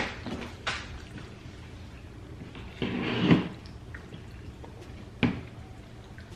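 Tableware sounds at a dinner table: a few sharp clinks and knocks of cups and dishes, with a short splash of drink being poured about three seconds in.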